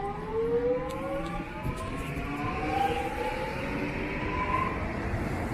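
Electric train's traction motors whining as it pulls away, several tones rising steadily in pitch over about four seconds as it accelerates, over a low running rumble.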